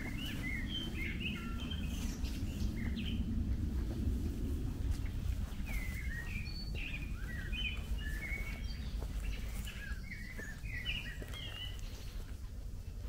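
A small songbird singing quick chirping phrases in two bouts, one at the start and another in the middle, over a steady low outdoor rumble.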